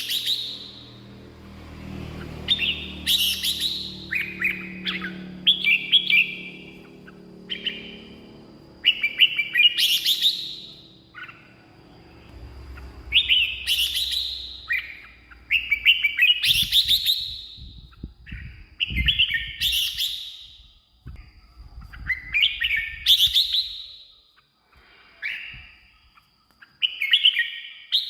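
Red-whiskered bulbul singing short, bright, warbling phrases, one every couple of seconds.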